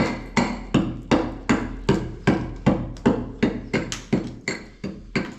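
Steady series of hammer blows, about three a second, each with a short ring after it.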